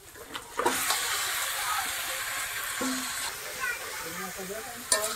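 Hot oil in a kadai sizzling with a sudden, loud hiss about a second in, as if something has just gone into the pan. The hiss stays steady for a couple of seconds, then eases a little.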